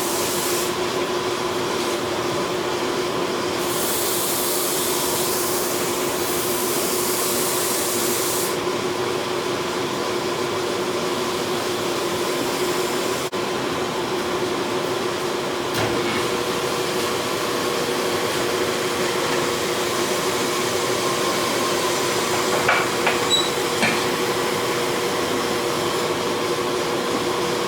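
A forge running with a steady roar and an even mechanical hum, with a few light clicks of metal a little past two-thirds of the way through.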